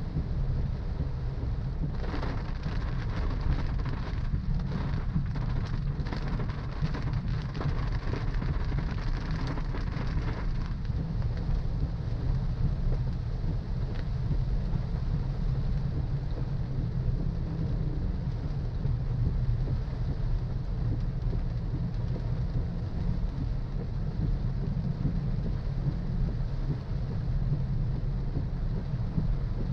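A car driving in rain: a steady low rumble of engine and road, with a hiss of rain and wet-road spray that is heavier from about two seconds in until about ten seconds in.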